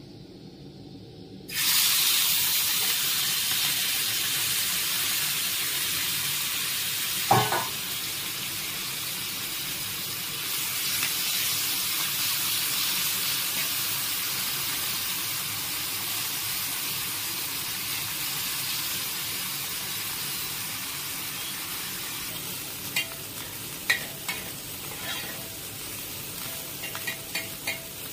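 Small spice-coated prawns going into hot oil in a kadai: a loud frying sizzle starts suddenly about a second and a half in and keeps on steadily. A flat steel spatula stirring them knocks sharply on the pan once early on and clicks against it several times near the end.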